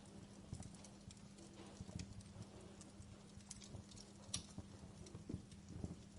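Wood fire crackling in a fireplace: irregular small pops and snaps over a faint hiss, with a sharper pop about four seconds in. A steady low hum runs underneath.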